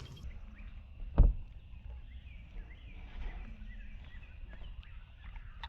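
Handling noise in a kayak: a single sharp thump about a second in over a low steady rumble, with faint bird chirps in the background.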